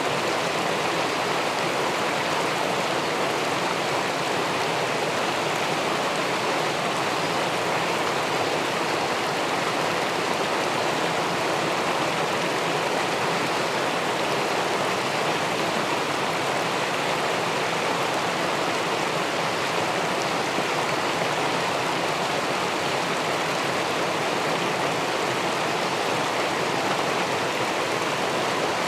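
River water spilling over a small weir into the pool below, a steady, even rushing with no breaks.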